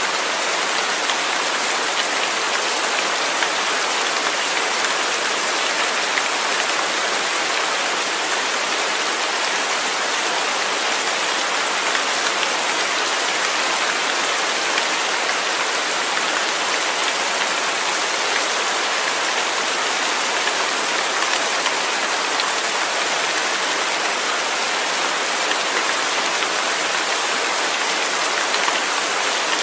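Steady rain falling on a surface, an even hiss with faint drop ticks.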